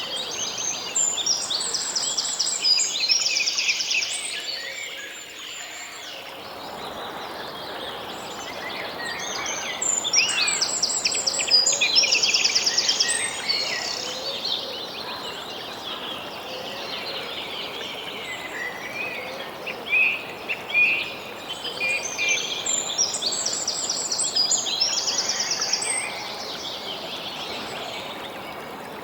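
Songbirds singing in the background: phrases of chirps and fast high trills that come back three times, roughly every ten seconds, over a steady background hiss.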